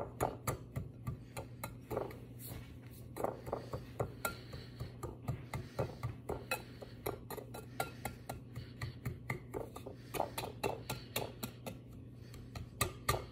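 Wire balloon whisk beating in a mixing bowl, its wires clinking against the bowl in a quick, uneven rhythm of several clinks a second.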